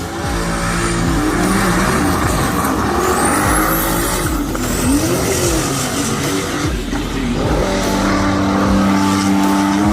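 Drag race cars accelerating hard down the strip, engine pitch climbing and dropping again and again through the gear changes, with a high whine rising and falling about three seconds in.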